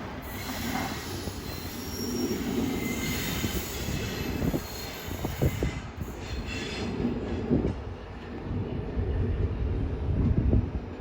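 Train moving slowly on the rails with a steady low rumble, its wheels squealing thinly in the first few seconds, and a few short clunks later on.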